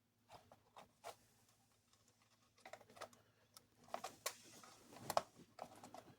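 Faint, scattered clicks and taps of small plastic toy parts being handled and fitted, coming more often in the second half.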